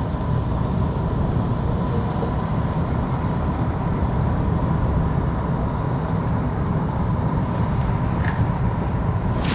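Wind rumbling on the microphone outdoors, a steady low buffeting roar, with a faint steady high hum underneath.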